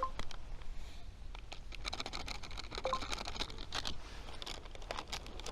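Small wood gas stove burning twigs, the fire crackling with rapid, irregular clicks that are densest in the middle. Two brief metallic clinks come at the start and about three seconds in, over a low wind rumble.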